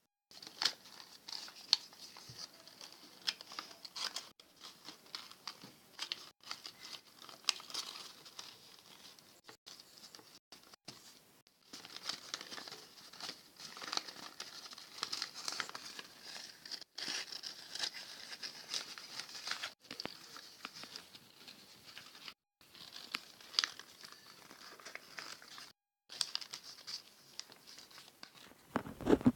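Paper being handled, folded and pressed by hand, rustling and crinkling irregularly with small crackles, broken off by several sudden short silences.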